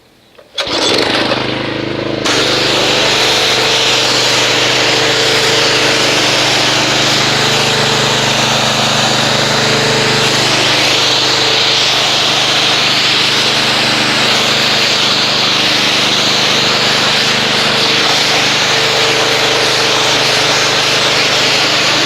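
Pressure washer coming on about half a second in, its motor running steadily under the loud hiss of the water spray as the car is rinsed down.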